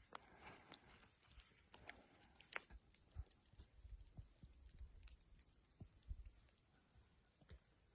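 Faint, irregular footsteps on a snowy path: soft crunches and clicks with a few low thumps.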